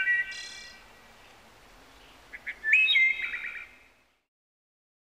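Bird chirping: a short call at the start, then a rising call about two and a half seconds in that ends in a quick run of short notes.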